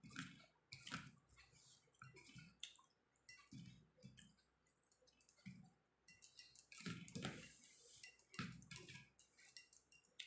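Soft eating sounds: chewing of rice and curry with wet mouth clicks and squishes, coming roughly once a second.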